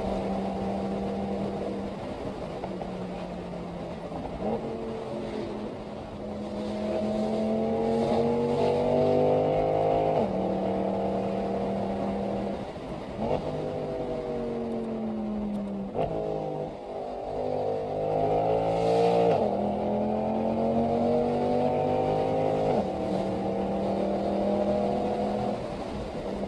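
Mercedes-Benz SL63 AMG V8 engine accelerating, heard from inside the cabin: the engine note rises through each gear and drops sharply at each of several upshifts.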